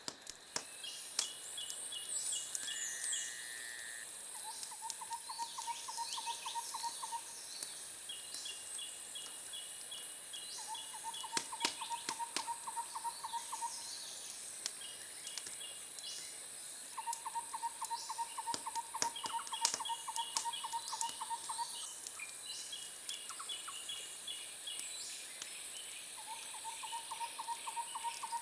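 Outdoor bird chorus. A rapid pulsed trill repeats four times, each lasting about three seconds, among strings of short higher chirps over a steady high-pitched hiss, with a few sharp clicks scattered through.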